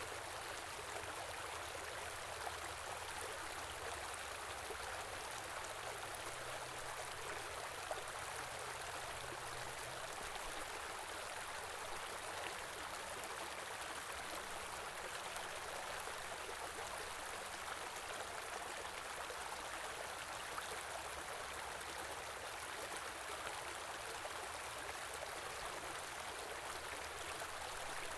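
A small winter stream flowing steadily over rocks, with an even rushing and burbling of water.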